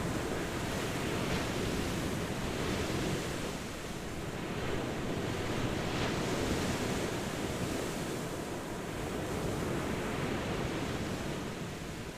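Ocean waves washing onto a shore: a continuous rushing surf that swells and eases about every four seconds.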